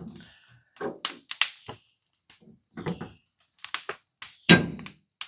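Crickets chirping steadily, with a series of short knocks and clatters from something being handled, the loudest about four and a half seconds in.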